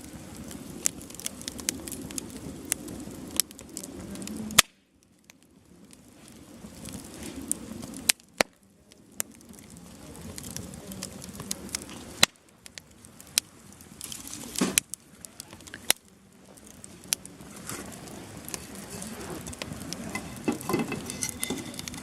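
Wood bonfire burning: a steady flame hiss with frequent sharp crackles and pops from the firewood. The sound cuts out abruptly about four times and comes back.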